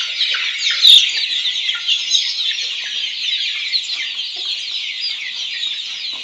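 Many Black Australorp chicks peeping at once: a dense, constant chorus of high cheeps, with one short sharp knock about a second in.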